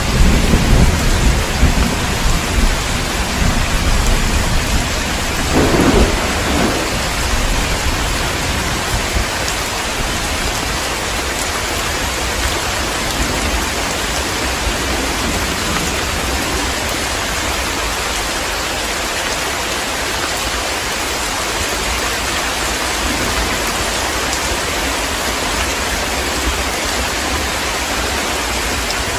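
Heavy rain with thunder: a low thunder rumble over the first several seconds, swelling to a louder peal about six seconds in, then a steady downpour.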